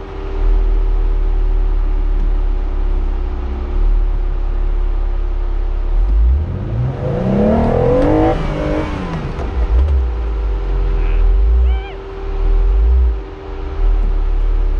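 Jeep engine running over a steady low rumble, revving up and then dropping back about halfway through.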